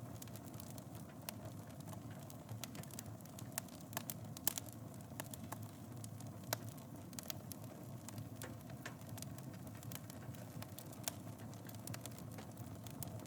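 Wood fire burning in a fireplace: a steady low rush of flames with irregular crackles and pops, the loudest pop about four and a half seconds in.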